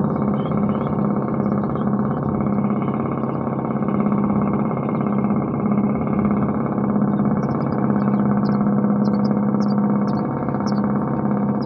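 A riverboat's engine running at a steady speed, a loud even buzzing drone that does not change in pitch. Faint short high chirps come in during the last few seconds.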